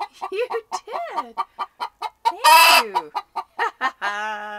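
Hen's egg song after laying her first egg: a quick run of short clucks broken by one loud, harsh squawk a little past halfway, then a held call near the end.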